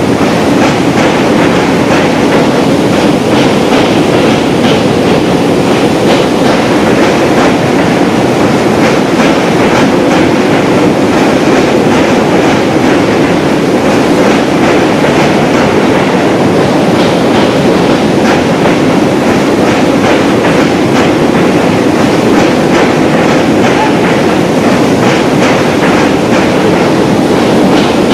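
Indian Railways passenger coaches rolling across a steel truss girder bridge: a steady, loud rumble of wheels on rails, with rapid clickety-clack from the rail joints.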